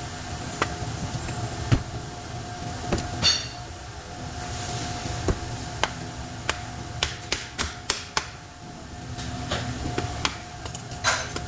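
Irregular sharp taps and clinks of hand tools on metal while taking apart an electric motor (dynamo), about a dozen knocks spread unevenly, over a steady background hum.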